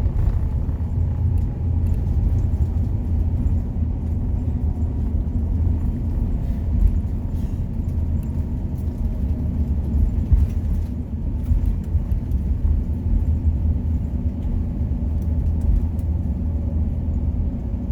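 Steady low rumble inside an airliner cabin as the plane rolls on the ground after landing, with a few faint knocks from the cabin.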